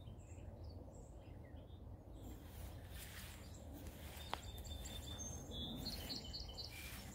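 Faint bird chirps over a low, steady background noise, with a cluster of short high chirps in the second half and a single sharp click about four seconds in.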